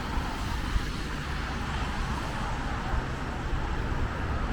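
Steady city street noise: traffic running past with a low rumble and an even hiss.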